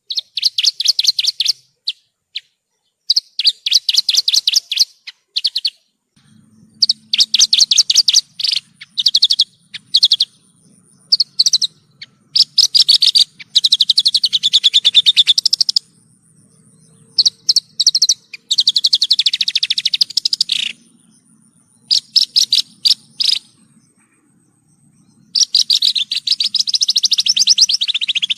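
Javan bush lark (branjangan) singing: phrases of fast, buzzy trills and chatter, a second or two each, broken by short pauses.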